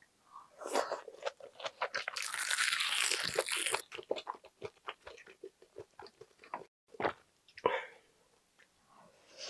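Close-miked eating: biting into a large piece of braised kimchi, with a loud, dense stretch of noise from about two to four seconds in, then steady wet chewing with many small mouth clicks.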